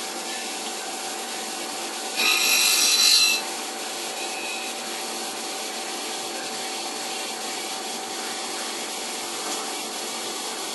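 CNC milling machine facing a workpiece with a fly cutter at slow speed: a steady machining noise with a constant hum, and about two seconds in a louder, high-pitched burst lasting about a second.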